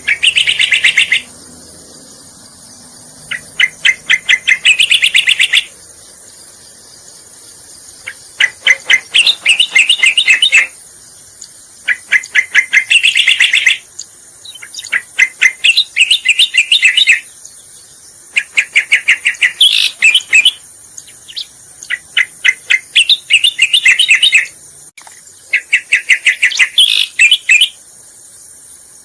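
Cica koreng (cucak koreng) song played as a bird-lure recording: about eight phrases of fast, rapidly repeated chattering notes, each one to two and a half seconds long, with short pauses between. A steady high-pitched hiss runs underneath.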